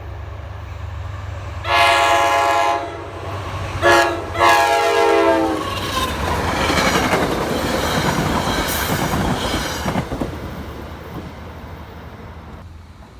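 Locomotive air horn sounding a multi-note chord: a long blast, a short one and a long one, the end of the long-long-short-long grade-crossing signal. The train then passes close with a loud rumble and wheel clatter that fades away over the last few seconds.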